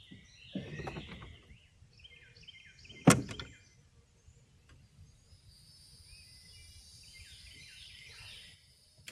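Birds chirping in short calls on a riverbank, with a single sharp knock about three seconds in and a thin steady high buzz for a few seconds near the end.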